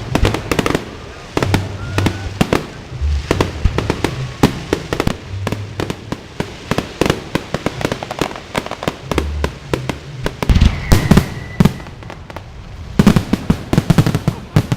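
Fireworks display going off: a dense run of sharp bangs and crackles, with louder clusters of bangs about ten seconds in and again about thirteen seconds in.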